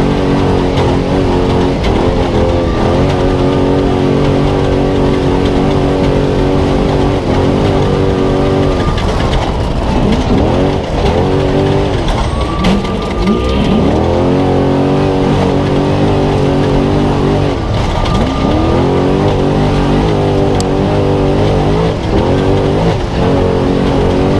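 Spec Trophy Truck's engine running hard at high revs, the pitch dropping and climbing back several times: around nine seconds in, again near twelve, eighteen and twenty-three seconds, as the truck lifts off and re-accelerates or shifts.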